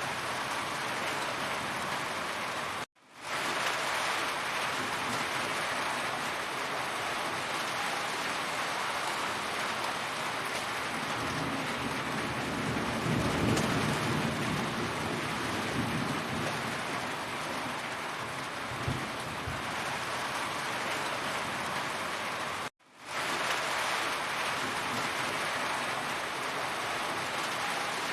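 Heavy rain falling in a steady dense hiss of drops on surfaces, with a low rumble swelling and fading midway. The sound cuts out for a split second twice.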